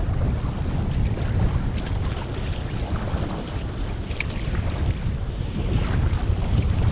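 Wind buffeting the microphone in a steady low rumble over the wash and splashing of sea water around a kayak.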